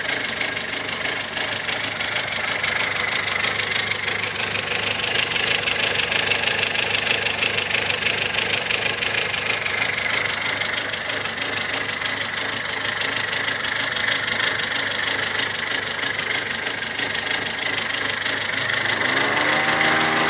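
Mazda 626 engine idling, heard from underneath, with a fast, steady chattering tick. The owner thinks it could be a hydraulic valve lifter but is not sure.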